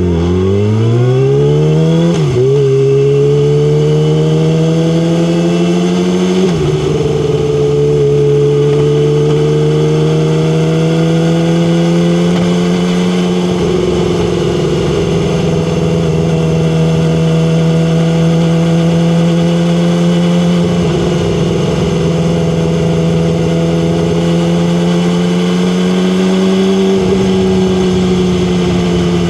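Yamaha R6 sport bike's inline-four engine accelerating hard, its pitch climbing and dropping at upshifts about two and six seconds in, then running at a steady cruise with small throttle changes. Heard from microphones mounted on the bike.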